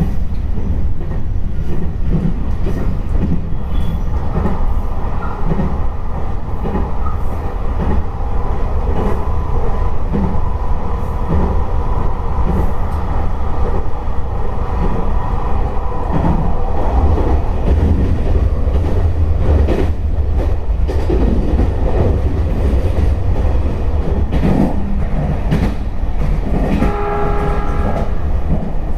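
Electric train running on the Tohoku Main Line: a steady rumble with wheels clicking over rail joints. A brief pitched tone sounds near the end.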